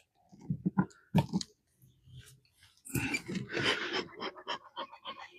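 Hive tool prying apart wooden hive parts glued with propolis: sharp wooden cracks and clicks, then a stretch of crunching and scraping about three seconds in, and a run of small ticks.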